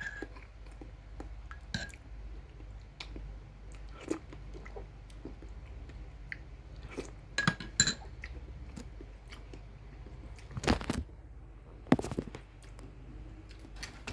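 Close-up chewing and crunching of crispy fried chicken and chicken skin, with scattered small crunches and a few louder clicks and knocks about halfway through and near the end.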